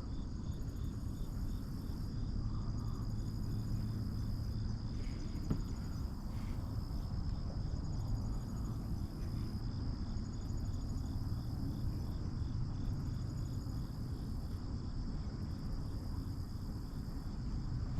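Insects chirping in a steady high-pitched trill, with pulsed phrases repeating about every two seconds, over a steady low rumble.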